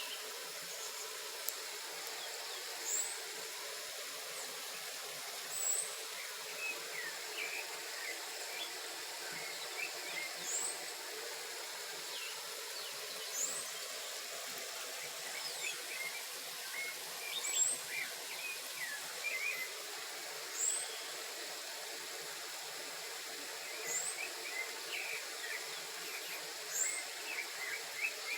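Several birds chirping over a steady background of insect and outdoor noise, with one high, quick rising call repeating every few seconds.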